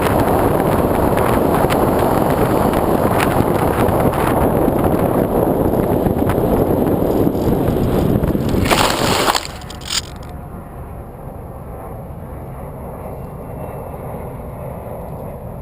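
Loud wind noise on a GoPro mounted on the wing of a foam RC airplane in flight. About nine seconds in, a brief scraping burst, then the noise drops suddenly to a low steady hiss, as the plane touches down and comes to rest.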